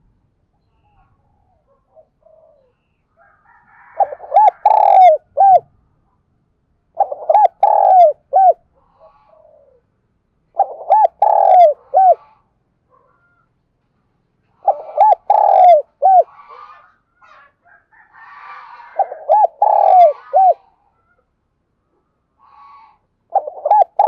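A decoy spotted dove cooing in the fast, urgent 'thổ pha thúc' style. It repeats phrases of four or five quick low coos about every three to four seconds, with faint chirps between phrases.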